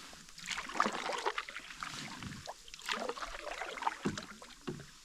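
Canoe paddle dipping into river water, with irregular splashes and drips alongside the canoe.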